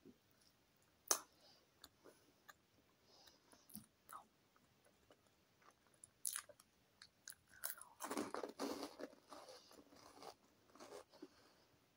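Close-up eating: biting and chewing crunchy cheese twist sticks, heard as scattered crunches. There is one sharp crunch about a second in and a dense run of crunching around eight to nine seconds in.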